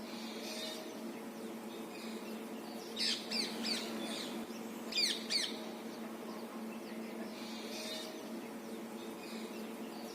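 Birds chirping: clusters of quick, falling chirps about three and five seconds in, with fainter calls between, over a steady low hum.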